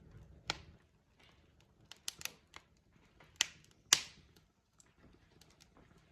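Wood fire crackling: irregular sharp pops and snaps from burning logs, the two loudest close together about three and a half and four seconds in.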